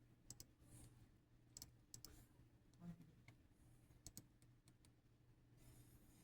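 Faint, irregular clicks, several in quick pairs, over a low steady hum.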